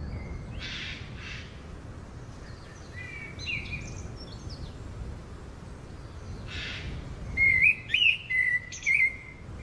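Songbird singing: a few scattered chirps about three seconds in, then a louder run of quick whistled notes from about seven seconds in, over a steady low background rumble. There are also two brief hissing bursts, one near the start and one just before the louder song.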